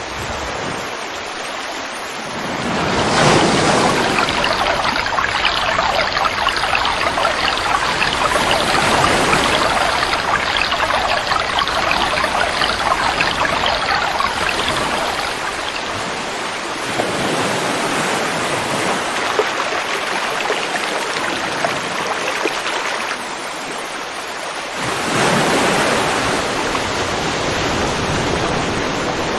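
River water rushing and splashing in a steady hiss. It swells louder about three seconds in and again near the end.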